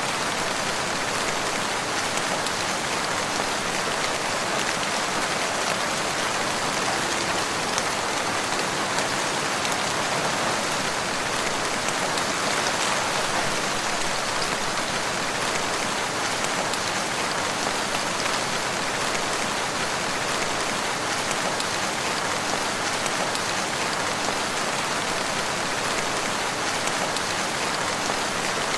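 Steady rain falling, an even, unbroken hiss with no thunder or pauses.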